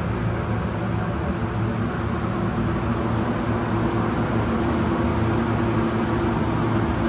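Paint booth ventilation fan running steadily: an even hum with a thin high whine, unchanging throughout.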